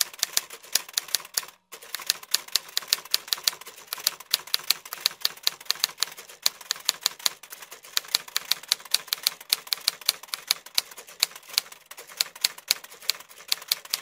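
Rapid typing clicks, several a second, as text is tapped out on a phone's on-screen keyboard, with a brief pause about two seconds in.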